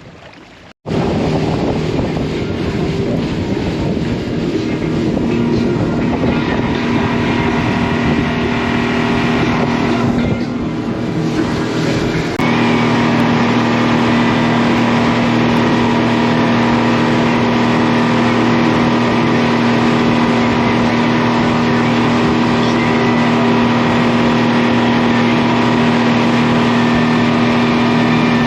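Motor of a motorised raft tour boat running steadily under way, with a constant engine drone. It gets louder and steadier about twelve seconds in.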